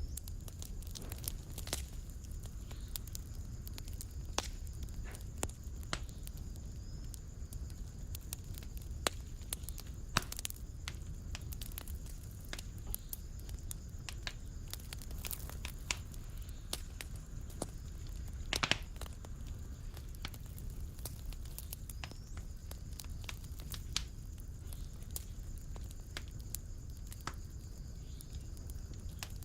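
Fire burning in a fireplace: a steady low rumble of flames with irregular sharp crackles and pops. One louder pop comes about two-thirds of the way through.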